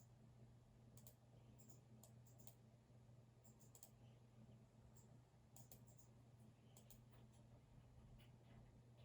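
Faint, irregular clicks from a computer keyboard and mouse, a few at a time with short pauses between, over a steady low hum.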